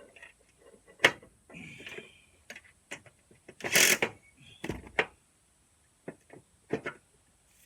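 Irregular clicks and knocks of tools and parts being handled, with a short ringing tone around two seconds in and a loud brief scrape just before the middle.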